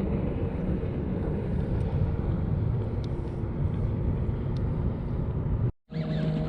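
Wind buffeting the microphone: a rough, steady rushing that breaks off for a moment near the end.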